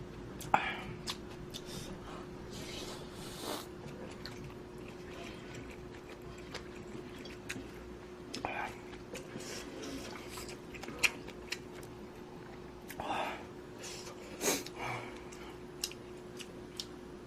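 Close-miked eating sounds of a person spooning up budae-jjigae instant ramen: chewing, with scattered sharp clicks and a few short noisy mouthfuls. A faint steady hum runs underneath.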